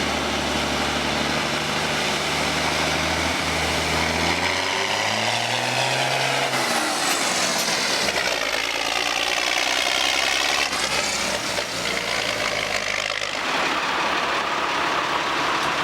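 A big truck engine running at a steady low idle, then revving up with rising pitch about four to six seconds in, and running on under load. The sound changes abruptly about thirteen seconds in.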